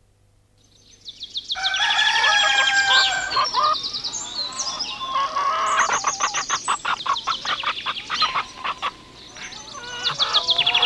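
A dense din of bird calls, squawks and fast chattering in quick repeated strokes. It fades in about half a second in, becomes loud about a second and a half in, eases briefly near the end and then swells again.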